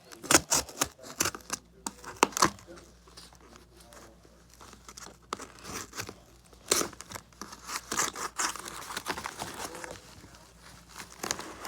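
Cardboard and tape being handled: a string of irregular sharp crackles and tearing noises, loudest in the first few seconds and again about seven to nine seconds in.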